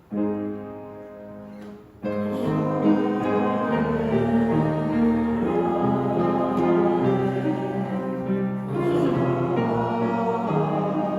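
Closing church music: a chord sounds and fades, then about two seconds in a fuller passage of held notes with choir singing comes in.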